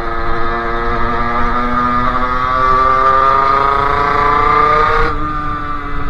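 Two-stroke 50cc engine of a Sherco moped with a KRM expansion exhaust and a Polini CP 17.5 carburettor, pulling under throttle. Its pitch climbs steadily for about five seconds, then drops suddenly and the engine carries on at the lower note.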